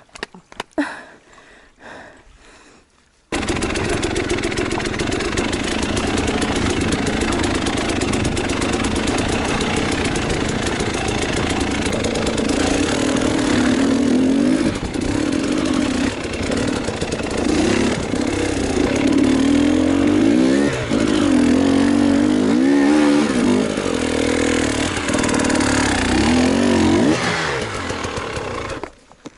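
Enduro motorcycle engine that cuts in abruptly about three seconds in and runs loud, its revs rising and falling repeatedly toward the end, then cuts off abruptly just before the end; a few faint clicks come before it.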